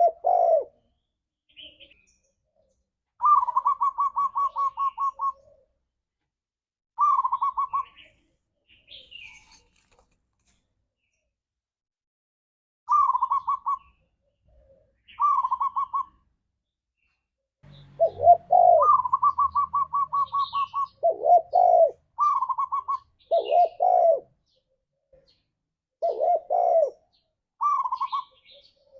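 Spotted doves calling in separate phrases: quick stuttering runs of notes, and from a little past halfway also lower rolling coos in quick succession. Faint short chirps of small birds fall in the gaps.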